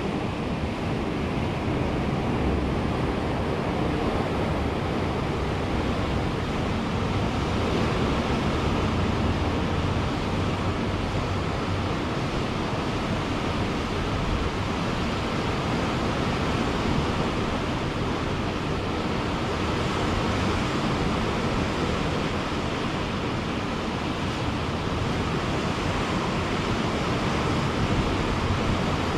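Ocean surf washing onto a beach in a steady, continuous rush that swells and eases slightly, with some wind on the microphone.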